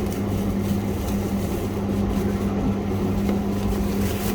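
A steady low hum with a constant pitch, with a few faint soft ticks of handling over it.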